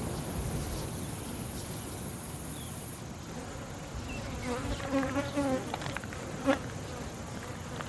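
An insect buzzing, in a few short broken buzzes about four to six seconds in and one brief buzz a little later, over a low steady rumble.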